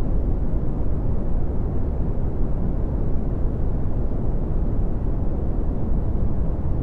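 Red (Brownian) noise: a steady, deep rumbling hiss, strongest in the bass and fading off toward the treble, with no changes.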